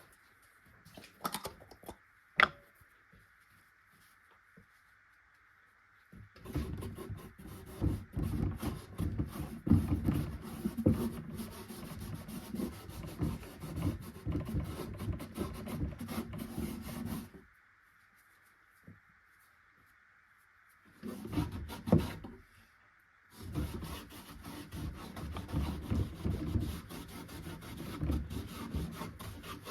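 Hand work on wood: rough rubbing, scraping strokes in two long spells, with a few sharp knocks near the start and between the spells.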